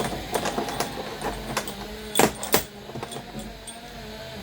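Steel bolts clicking and clinking as they are sorted by hand and set down: a string of sharp metallic clicks, with two louder knocks about two seconds in. A faint steady hum runs underneath.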